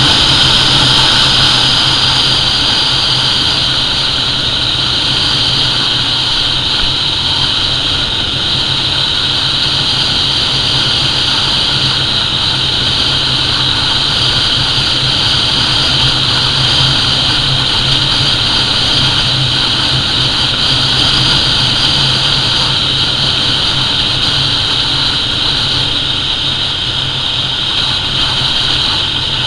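SYM T2 250 motorcycle's single-cylinder engine running steadily at high speed during a top-speed run, under a loud, even rush of wind noise.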